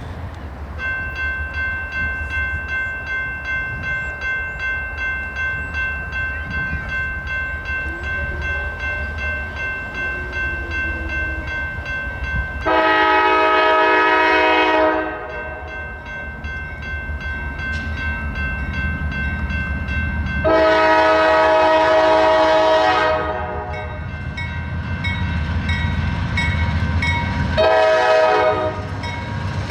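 Freight train's diesel locomotives running with a steady low rumble while a grade-crossing bell rings. The locomotive horn sounds two long blasts and a short one, loud and close, the start of the long-long-short-long grade-crossing signal.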